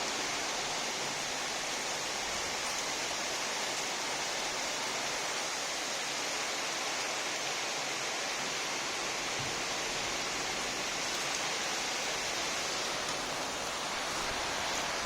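Heavy monsoon rain pouring down: a dense, steady hiss with no let-up.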